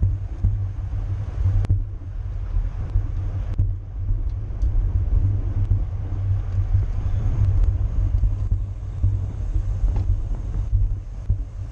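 Wind buffeting the microphone of a bicycle racer moving at speed, a steady low rumble with a few short sharp clicks.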